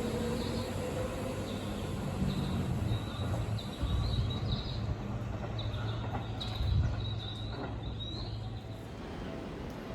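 Low rumble of a Seibu 30000 series electric train running on the rails, with a faint rising motor whine at the start, dying down near the end. Small birds chirp repeatedly over it.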